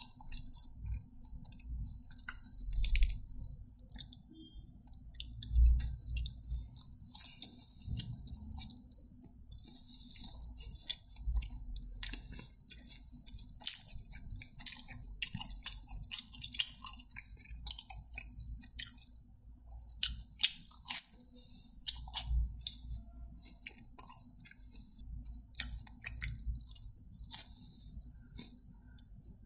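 Close-miked mouth sounds of someone chewing food: a run of small, irregular wet clicks and soft crunches with occasional low thuds.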